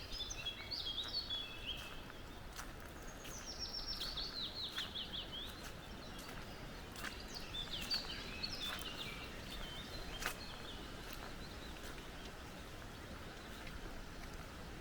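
Forest songbirds singing in several bursts of quick, descending whistled notes, over a steady background rush, with a few scattered sharp ticks.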